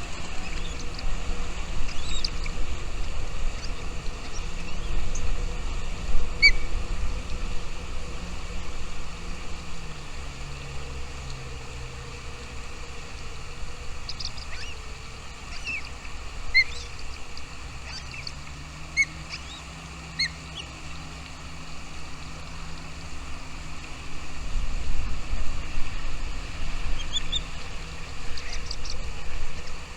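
Short, scattered high bird chirps, a few at a time with gaps between, over a steady low rumble and hum.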